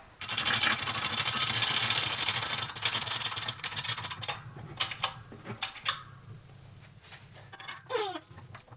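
A hydraulic shop press forces a wheel bearing about 2–3 mm deeper into a motorcycle eccentric hub through a socket. There is a dense rasping mechanical noise for about three seconds, then scattered metallic clicks and knocks as the press is worked and eased off.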